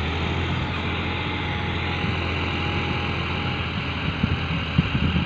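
John Deere 4x4 tractor engine running steadily, with a low hum, and irregular low knocks joining in during the last second or so.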